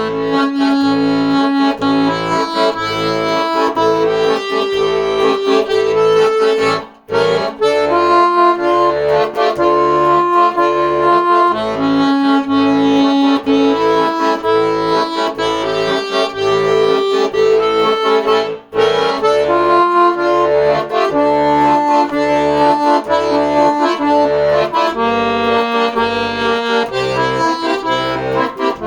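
Accordion playing an instrumental melody with sustained notes over a steady, pulsing bass-and-chord accompaniment. There are two brief breaks in the sound, about 7 and 19 seconds in.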